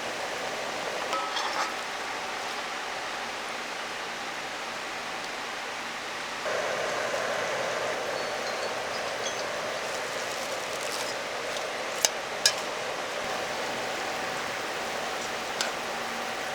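Steady rush of a mountain valley stream, with a few sharp clinks of metal or glass on top, two of them close together about twelve seconds in. The rushing gets a little fuller about six seconds in.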